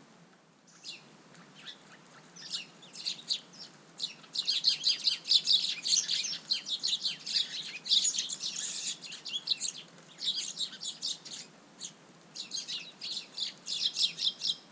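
Small garden birds chirping, many short high notes in quick succession, sparse at first and then thick bursts of chatter from about four seconds in, with brief lulls.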